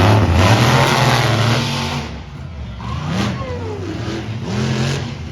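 Monster truck engine revving: loud for the first two seconds, then several shorter blips of the throttle, the pitch rising and falling with each.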